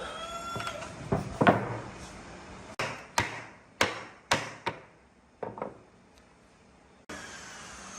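Hammer blows on wood: about nine sharp knocks in an uneven rhythm over some five seconds, each dying away quickly.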